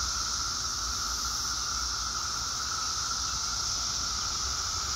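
Brood X periodical cicadas chorusing en masse: a steady, unbroken drone with a lower and a higher pitch held together.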